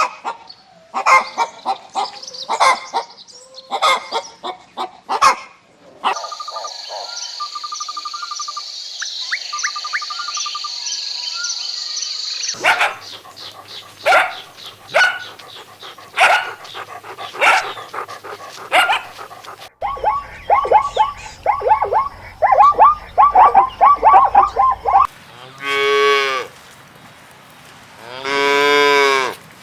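A string of animal calls: short sharp calls repeated in runs, like dog barks and yips, then near the end two long, low cow moos.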